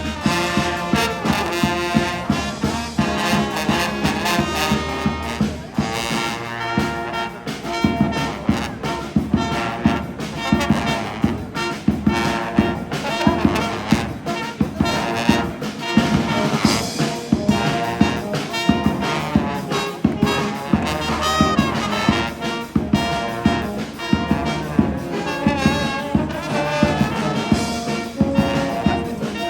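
Street brass band playing jazz-style music with horns and a steady beat.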